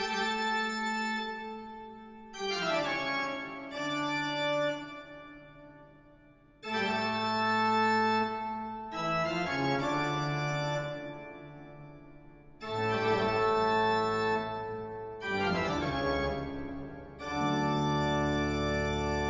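Background music of slow, sustained organ-like keyboard chords, a new chord every two to four seconds, each fading a little before the next.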